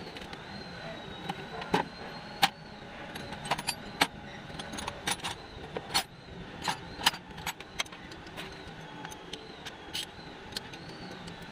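Hand tools and metal parts clinking and clicking irregularly, a dozen or so sharp knocks, during work on an engine's water pump.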